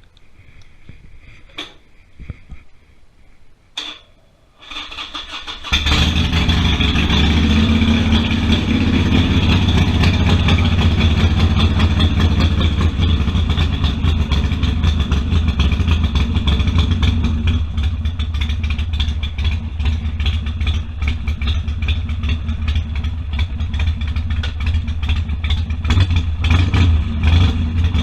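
Harley-Davidson Sportster V-twin being started: a few clicks, a brief crank about five seconds in, then the engine catches and runs at a steady idle with a deep, loud rumble.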